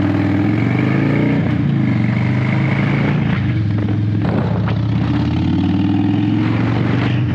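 Harley-Davidson V-twin motorcycle engine under way, its pitch rising as it accelerates in the first second or so, then running steadily. There are short breaks in the engine note about three and four seconds in.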